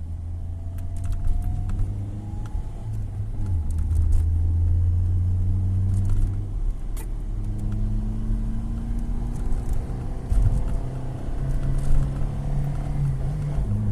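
Tofaş Doğan SL car engine being revved: it runs steadily, rising in pitch about a second in and again in a long slow climb through the second half, then drops back just before the end.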